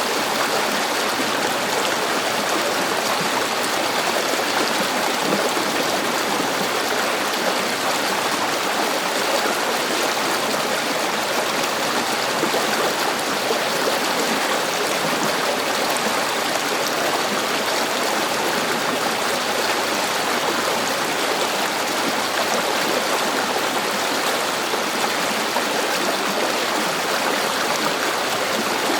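River water flowing and burbling over stones, a steady even rush with no change.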